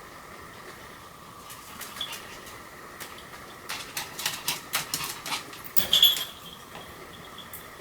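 Pomeranian moving about with a quick run of sharp clicks and taps, ending in one short, high-pitched yap about six seconds in.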